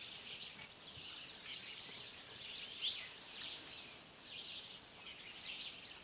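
Wild birds calling in the bush: a steady run of short, high, downslurred chirps, about two a second, with one longer high whistle about three seconds in that is the loudest call.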